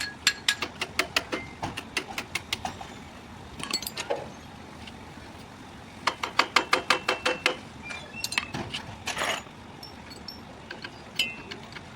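Ratchet spanner clicking in quick runs, about five clicks a second, with pauses between runs and a short scrape of metal about nine seconds in.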